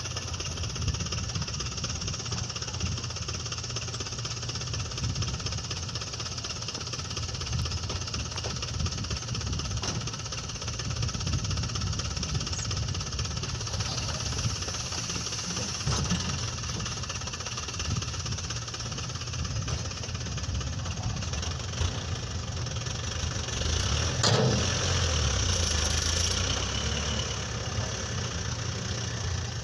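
Toyota Dyna dump truck engine running steadily at idle. A sharp knock comes about three-quarters of the way through, followed by a few seconds of louder running.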